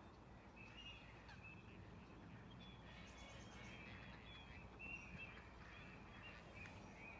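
Faint birdsong: short chirps and twitters repeating every second or so over a quiet, low outdoor background.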